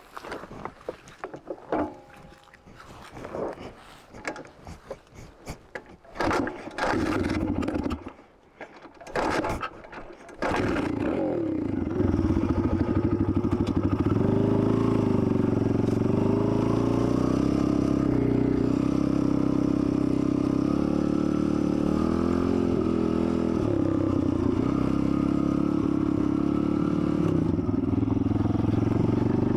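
Dirt bike engine started about ten seconds in, then running steadily with small rises and falls in engine speed. Before it start there are irregular handling knocks and a few short loud bursts.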